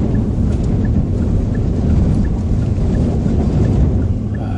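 Typhoon wind and rain: a loud, steady low rumble of gusting wind buffeting the microphone. Faint high pips repeat about three times a second.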